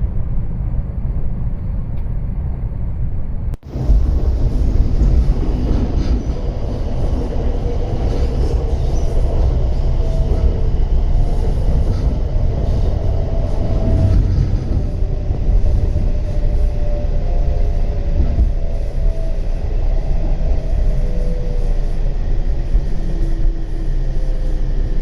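W7 series Shinkansen train running: a steady low rumble. About three and a half seconds in it drops out for a moment, and then faint gliding tones ride over the rumble.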